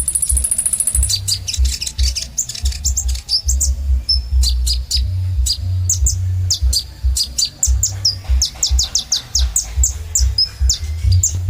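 Sunbird song ('kolibri ninja'): a rapid, busy stream of high chirps and quick descending notes, opening with a buzzy high trill, over a low pulsing thud.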